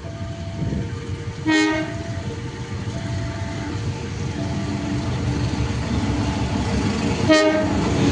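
Locomotive horn sounding two short blasts about six seconds apart as a train approaches, its rumble growing steadily louder. Under it a level-crossing warning alarm keeps alternating between two tones.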